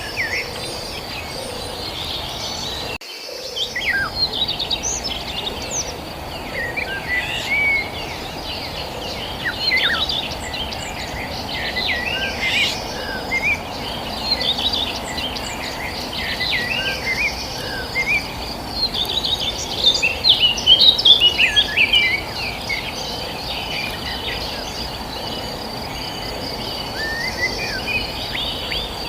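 Many small birds chirping and twittering in quick, varied calls over a steady high-pitched insect drone, with a constant low background rush.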